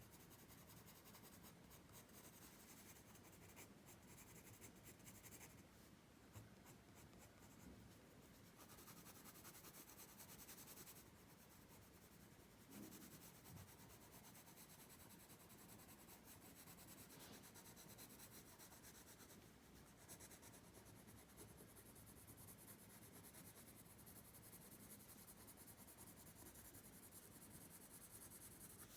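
Faint, steady scratching of pencil strokes on paper, coming and going in short strokes.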